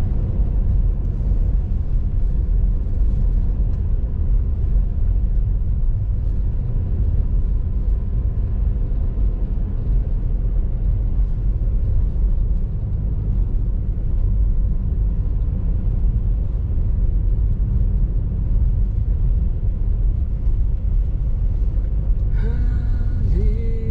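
Car driving along: steady low engine and road rumble heard from inside the cabin. A short pitched sound comes in near the end.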